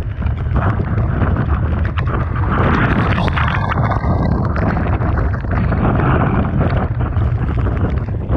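Typhoon wind buffeting the microphone with a deep, continuous rumble, over rough sea with waves crashing and surging; the noise swells about two to four seconds in and again around six seconds.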